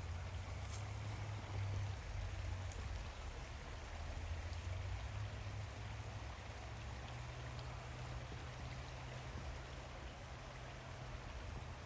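Steady rush of creek water flowing, with a low steady rumble underneath.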